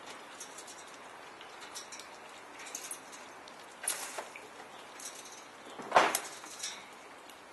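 Pet galahs moving about, making scattered small clicks and scratches, with one louder, sharp short sound about six seconds in, over a steady rain-like hiss.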